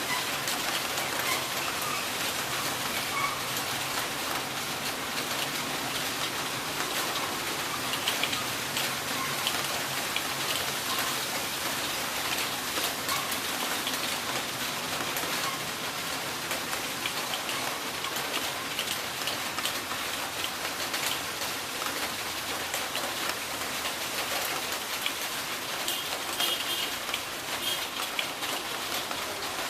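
Heavy rain falling steadily, a dense patter of drops on a surface.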